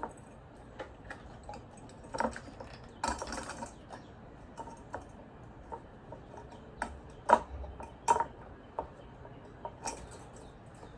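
Hands handling a twine-wrapped can and a hot glue gun: scattered light clicks and taps, a brief rustle about three seconds in, and a few sharper knocks in the second half.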